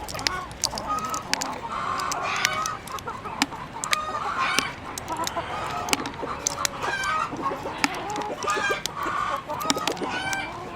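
A flock of chickens clucking and calling over one another, with many sharp clicks throughout.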